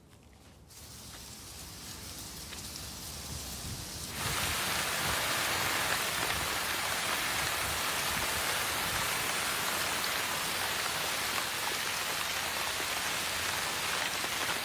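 Steady rain hiss, fading in over the first few seconds and stepping up louder about four seconds in, then holding even.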